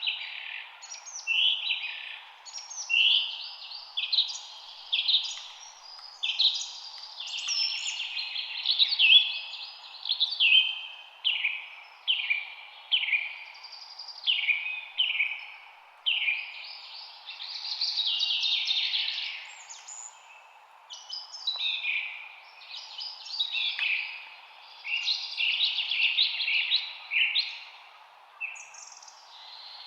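Birdsong: several birds chirping and trilling in quick succession, with only brief lulls, over a faint steady background hiss.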